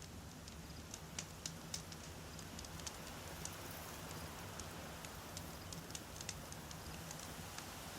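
Wood fire crackling, with many small sharp pops at uneven intervals over a steady low rumble.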